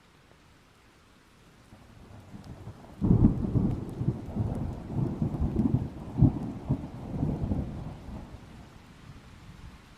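A peal of thunder in a rainstorm. A low rumble swells, then breaks loudly about three seconds in and rolls on with several surges before dying away near the end. A faint hiss of rain continues underneath.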